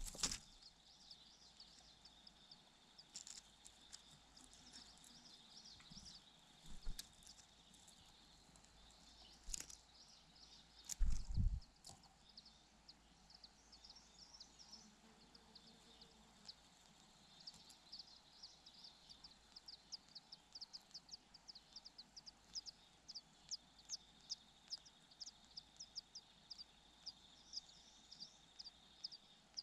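A few dull thumps in the first half, the loudest about eleven seconds in. From about halfway on, a bird gives a rapid run of short, high peeps, about three a second, growing more frequent toward the end.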